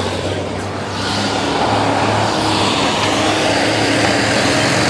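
A truck engine running steadily, getting slightly louder about a second in.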